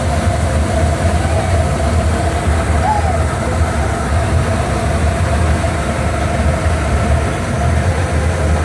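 Twin 205-horsepower V6 inboard engines of a Cruisers Vee Express 267 motor yacht idling together steadily, just started and running smoothly.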